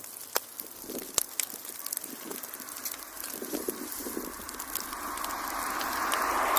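Log fire crackling in a fireplace: irregular sharp pops over a soft hiss that grows louder near the end.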